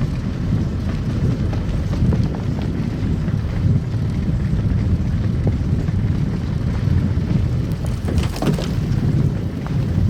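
Car driving on a snow-covered road: a steady low rumble of tyres and engine, with a few sharp clicks and crackles near the end.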